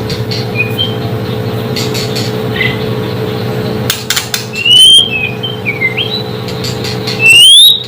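White-rumped shama (murai batu) calling: scattered short chirps, then loud rising whistles about halfway through and again near the end, over a steady low hum.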